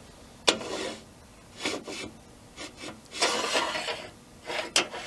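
Something being slid and scraped across the table saw and workbench tops in several short strokes, with a sharp knock about half a second in and another near the end.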